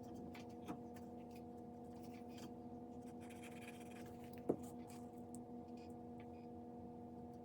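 Quiet room tone with a steady electrical hum, under faint taps and rustles of hands working small craft pieces; one sharper tap about four and a half seconds in.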